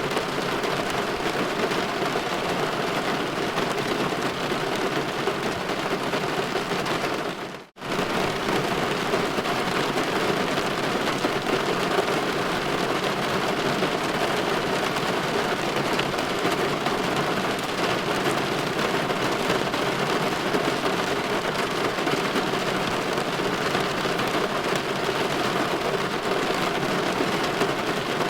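Steady light rain pattering on window glass, an even hiss with no break except one moment, about eight seconds in, where the sound dips briefly to near silence and then comes back unchanged.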